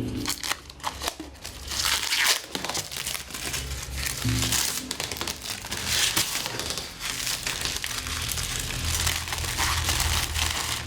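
Plastic wrapping or protective film crinkling and rustling as it is handled and pulled off, in irregular crackles, over background music.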